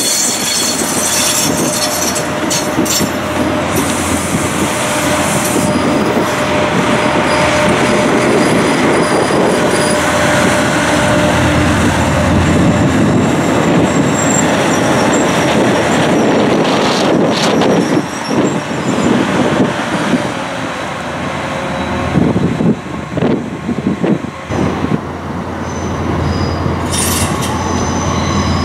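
Diesel passenger train moving along the platform, with the steady rumble of the train and the squeal of its wheels on the rails. Irregular knocks break in during the second half.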